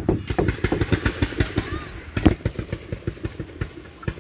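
Fireworks going off in a rapid barrage: a dense string of pops and bangs several a second, the loudest bang about two seconds in.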